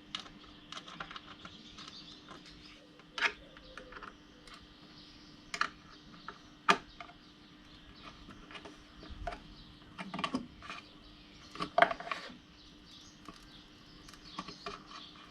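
Irregular light clicks and taps, with a few sharper knocks between them, over a faint steady hum.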